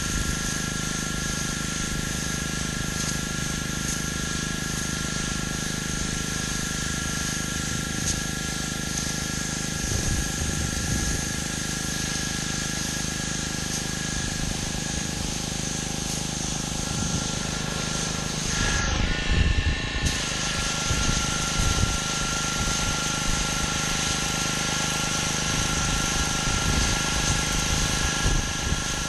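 Gas-engine pressure washer running steadily with the hiss of its high-pressure water spray on concrete; the spray hiss cuts out for about a second around two-thirds of the way through, then resumes.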